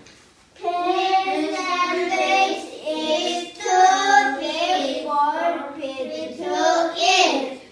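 A young child singing a sung melody with no accompaniment, starting about half a second in, in phrases broken by short breaths, and stopping just before the end.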